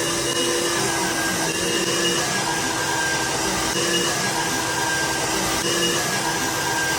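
Steady whir of an electric motor with a rushing air hiss, at an even level, with a few faint steady tones on top.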